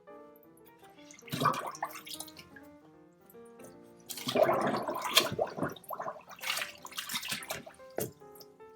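Background music over three bursts of sloshing and splashing water as laundry is loaded into the tub of a Della portable washing machine.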